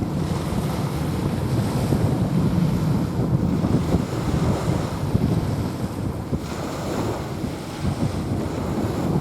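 Small sea waves washing onto a sandy beach, the surf swelling and easing every few seconds, with wind rumbling on the microphone.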